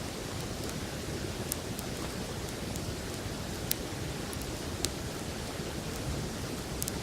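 Wood campfire crackling, with a few sharp pops, over the steady rushing of a river.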